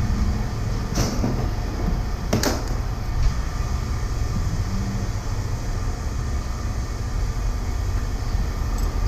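Steady low vehicle engine rumble, with two sharp knocks about one and two and a half seconds in.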